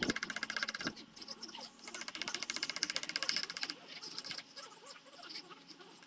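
Small power tool running with a rapid, even, high ticking rhythm that swells and fades, as a woodcarving tool does against the wood.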